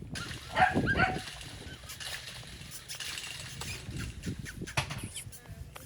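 Golden retriever puppies whimpering and yelping, with a burst of short, high, squeaky calls about half a second to a second in, amid scattered clicks and rustling.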